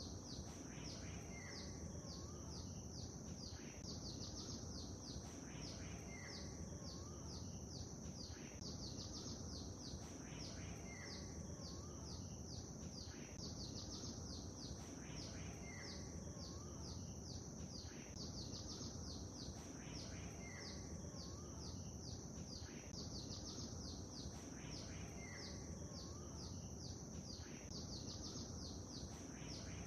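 Lake ambience: a steady low wash of gently rippling water, with many small birds chirping rapidly and high. One bird's short two-note call repeats about every two seconds.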